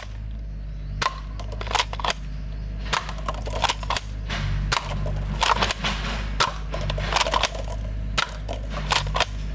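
Irregular sharp clicks and knocks of plastic toy guns being handled, some in quick clusters, over a steady low hum.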